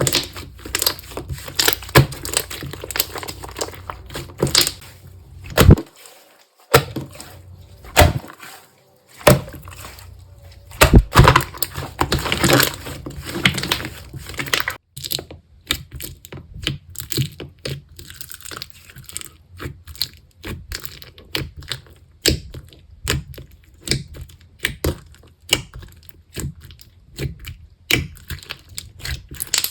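Slime being squeezed, poked and stretched by hand, giving off a dense run of irregular crackles, clicks and small pops, busiest in the middle with a short lull a few seconds in.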